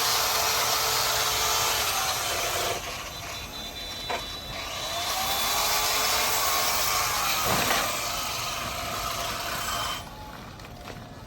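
Power tool grinding metal, a steady hiss with a whine that dips and rises in pitch under load. It eases off about three seconds in, comes back a couple of seconds later, and drops away about ten seconds in.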